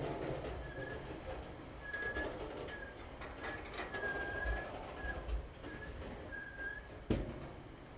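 Loaded container wagons of a freight train rolling past: wheel rumble and clatter, with short high squeals at one pitch coming again and again, and a single sharp clank about seven seconds in as the tail of the train goes by.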